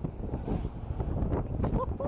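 Jeep driving off fast on a dirt track: engine and tyre rumble with heavy wind buffeting on the microphone. Near the end a steady held tone begins.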